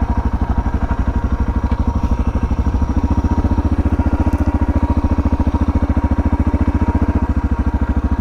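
Suzuki DR650's single-cylinder engine running steadily with an even, fast pulse, getting a little fuller about three seconds in.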